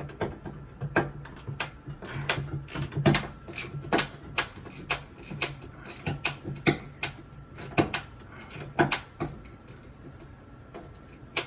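A screw being backed out with a hand screwdriver: a string of irregular mechanical clicks, about one or two a second, thinning out after about nine seconds, with one sharp click near the end.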